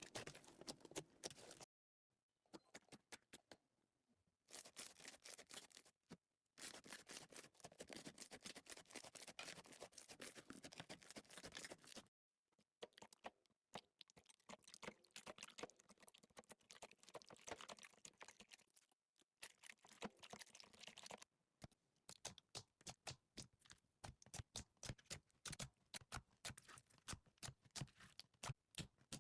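Slime being squeezed and poked by hand, giving quiet, rapid clicking and crackling sounds, in several short stretches cut apart by brief silences.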